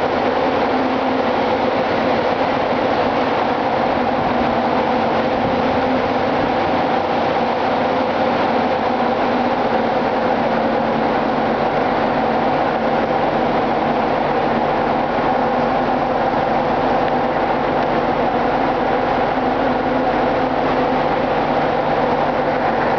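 Ship's engine room machinery running: a loud, steady mechanical noise with a constant hum that does not change.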